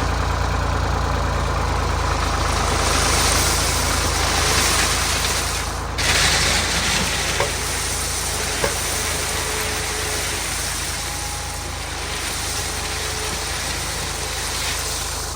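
Old Ford tractor engine idling steadily, running again after the trash was cleaned out of its fuel system and the lines bled. The sound shifts abruptly about six seconds in.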